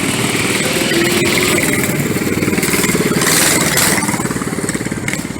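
A vehicle engine running close by with a rapid, even exhaust beat, growing a little louder around the middle.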